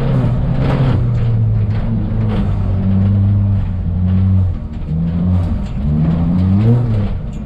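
Ford Fiesta ST rally car's turbocharged 1.6-litre four-cylinder engine revving hard under load. Its pitch climbs and drops back sharply about four and a half seconds in and again near the end, as the throttle is lifted or a gear is changed.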